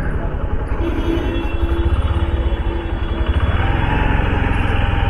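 Honda CD 110 motorcycle's small single-cylinder four-stroke engine running steadily at low speed while riding through traffic, with a continuous low rumble of road and street noise.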